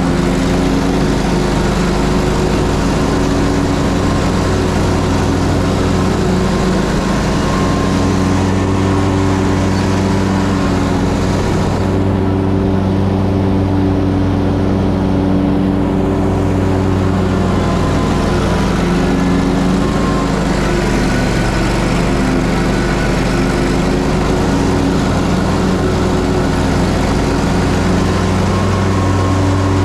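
Ferris Z3X zero-turn mower's 37 hp engine running steadily, with the top end of the sound briefly dulled near the middle.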